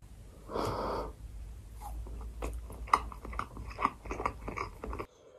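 Close-miked mouth sounds of chewing sushi topped with pickled ginger: many short wet clicks and smacks, with a louder, noisier stretch about half a second in. A low hum sits under it and cuts off near the end.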